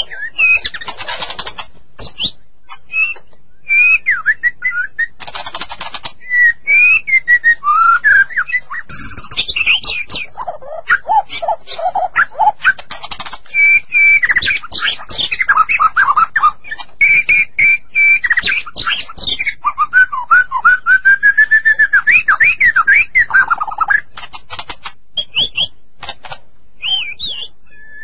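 White-rumped shama (murai batu) singing a long, varied song: loud whistled phrases of gliding notes and fast runs of repeated notes, broken by short pauses.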